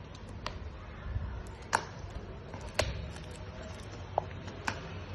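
Packaging being handled during an unboxing: a handful of sharp clicks and taps over a low hum, the loudest about two and three seconds in.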